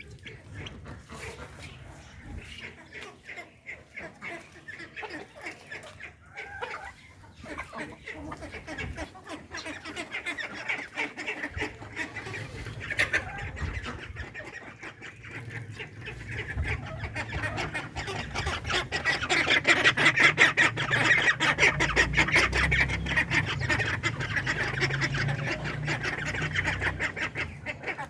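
A flock of ducks and hens feeding together, with ducks quacking over a dense, rapid clatter of clicks. The sound grows louder over the second half.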